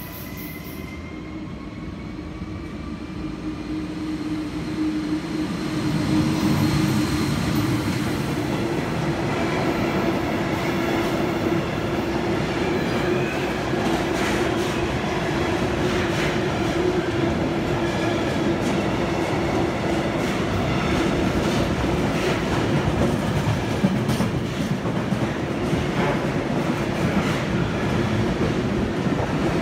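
A freight train of tank wagons rolls past: a steady rumble with a constant hum and wheel clacks every couple of seconds. It grows louder over the first six seconds and then holds steady.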